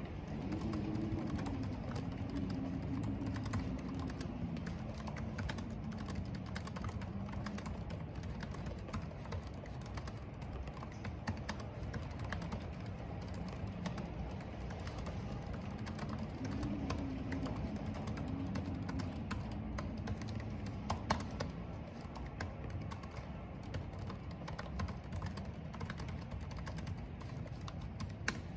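Computer keyboard typing, a steady run of key clicks, over a low steady rush of wind and rain. A low wind moan swells near the start and again around the middle.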